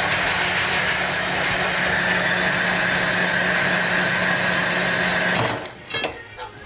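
MIG spool gun welding aluminum: a steady loud arc hiss and crackle with a constant electrical hum, which stops abruptly about five and a half seconds in. A few sharp clicks and taps follow.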